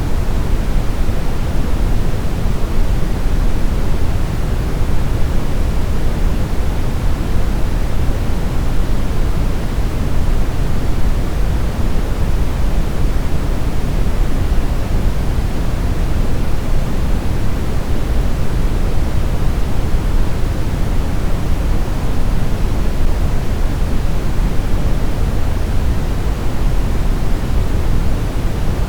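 Steady brown noise: a constant, even rumble, heaviest in the low end and thinning toward the highs, with no changes or events.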